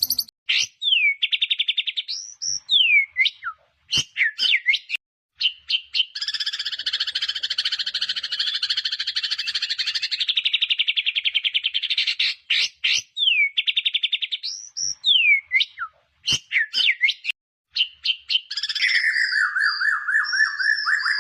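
White-rumped shama (murai batu) singing a varied song: fast trills, sweeping whistled notes, and a long rapid rattling trill that lasts about six seconds in the middle.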